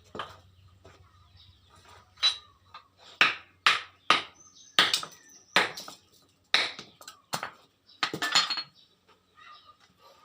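Hammer blows on metal: a run of about ten sharp strikes at an uneven pace, each with a brief metallic ring.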